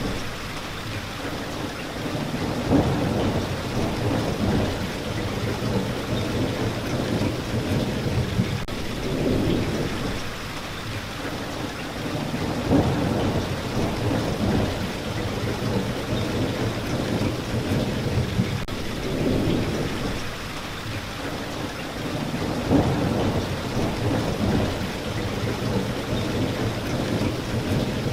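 Steady rain with low rumbles of thunder that swell and fade several times, each lasting a few seconds.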